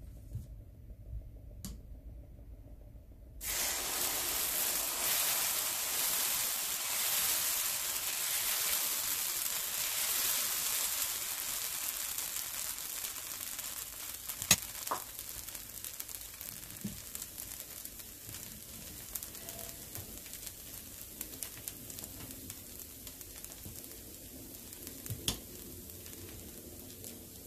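Dosa batter sizzling on a hot cast-iron skillet: a sudden hiss starts about three and a half seconds in as the batter hits the pan, stays strongest for several seconds, then slowly dies down as it cooks. A couple of sharp knocks stand out, one in the middle and one near the end.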